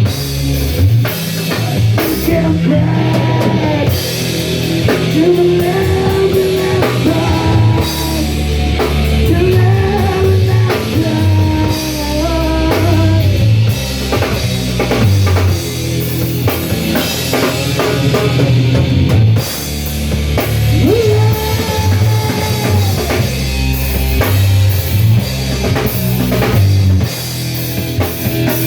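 Rock music played by a band: a full drum kit and guitars, with a melody of long, bending held notes over the top.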